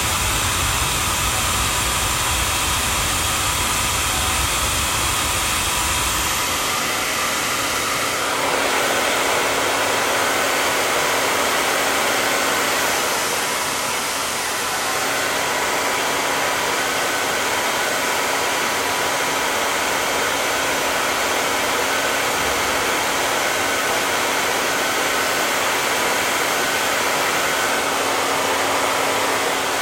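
Hand-held hair dryer running steadily with an even, rushing hiss; its tone shifts about seven seconds in, the low rumble dropping away and a steady hum coming in.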